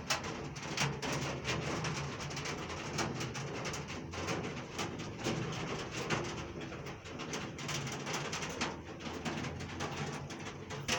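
Heavy rain falling, with many sharp drops striking a hard surface close by at irregular intervals over a steady hiss.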